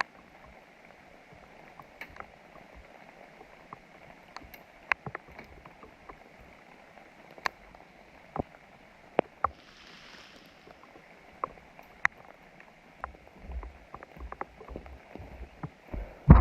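Steady rain falling, with scattered sharp ticks of drops striking, a brief hiss about ten seconds in, and a few low thuds near the end.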